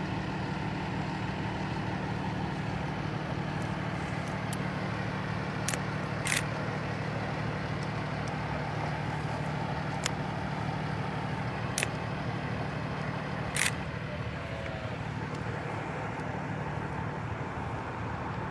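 A large vehicle engine idling steadily, with a few short, sharp clicks about six, twelve and fourteen seconds in.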